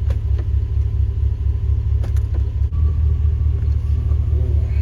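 Pickup truck engine idling with a steady, pulsing low rumble while the freshly rebuilt 4L60E automatic transmission is in gear; a few light clicks, and the rumble shifts a little past halfway.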